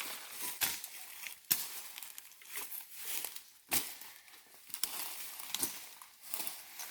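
Dry leaf litter and twigs crunching and rustling, with irregular sharp snaps; the loudest cracks come about a second and a half in and again near four seconds.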